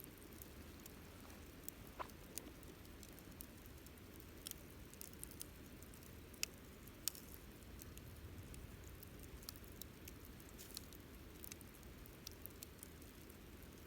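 Wood campfire crackling faintly: irregular small pops and snaps, a few sharper ones about 2 and 7 seconds in, over a low steady rush.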